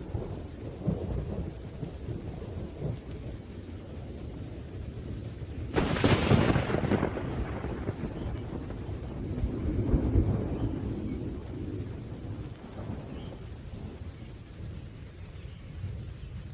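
Thunderstorm: low rolling thunder over light rain, with a sharp thunderclap about six seconds in that rumbles on, swells again a few seconds later, then dies down.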